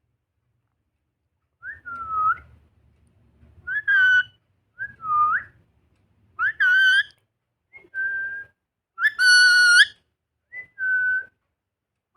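Young green parrot giving about seven short whistled calls a second or so apart. Each call rises sharply and then holds or dips, and some are brighter and fuller than others.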